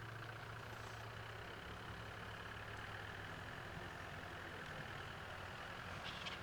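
A faint, steady, low engine hum with no change in speed.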